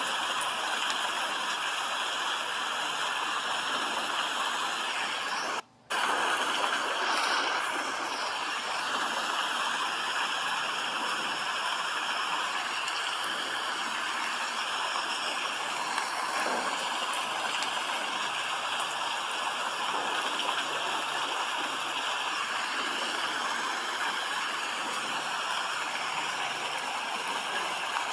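Steady rain, an even hiss, with a brief cut-out about six seconds in.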